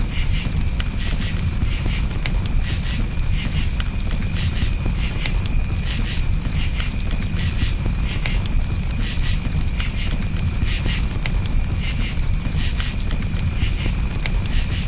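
Campfire crackling with scattered sharp pops over a low steady rumble, with crickets chirping in rapid pulses throughout.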